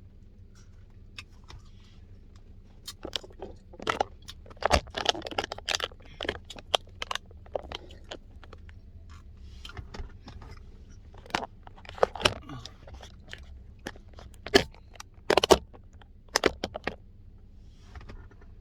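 Close-up chewing and crunching on a mouthful of pecan pie Blizzard with pecan pieces in it. The crisp crunches come in irregular clusters, loudest about a third of the way in and again near the end.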